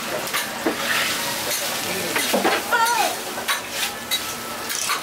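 Close-up eating sounds from a mouthful of hot takoyaki being chewed: a dense run of wet clicks and smacks, with a brief hum-like vocal sound near the middle and air puffed out through pursed lips near the end.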